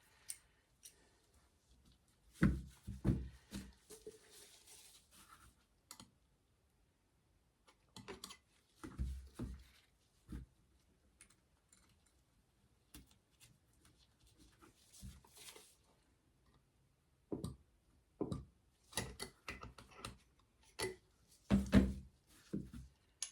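Small metal parts of a bicycle brake being handled and worked on: scattered clicks and knocks with brief light scraping, in a few short clusters, the loudest knocks near the end.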